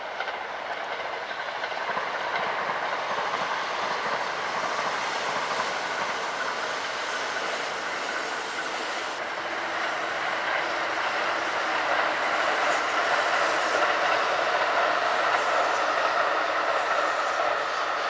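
Kintetsu Osaka Line electric train running past on the track, a steady noise of wheels on rails that grows louder in the second half.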